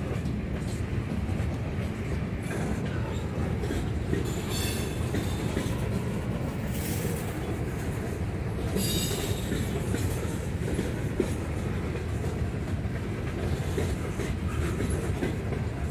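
Norfolk Southern mixed freight train's cars rolling past close by: a steady rumble of steel wheels on the rails, with a few brief high wheel squeals about four, seven and nine seconds in.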